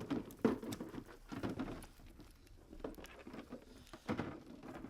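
Soft, irregular shuffling and rustling as a hunting dog is called over and handled.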